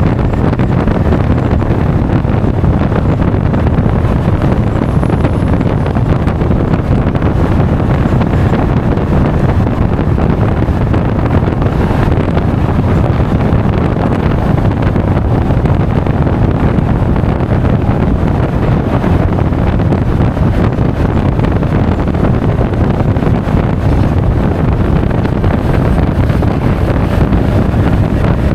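Steady, loud wind buffeting an action camera's microphone while riding a Honda Forza 350 scooter at road speed, with the scooter's engine and tyre noise blended underneath.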